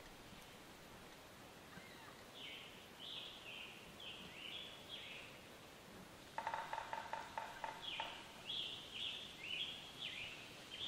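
A songbird singing two phrases of quick down-slurred whistled notes. Between them comes a rapid rattle of about a second and a half, the loudest sound here.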